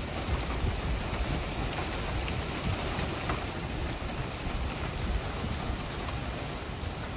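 Torrential wind-driven rain from a supercell's core pouring onto pavement: a steady, dense hiss with a few faint ticks, likely small hail hitting.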